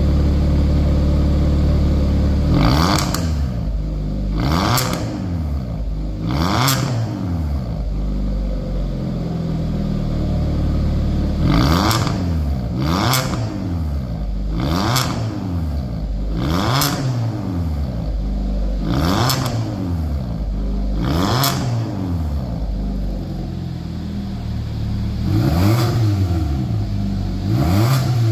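Hyundai Avante MD's engine through a custom variable exhaust, idling and revved about ten times in quick blips, each rev rising and falling in pitch with a loud rasp at the top.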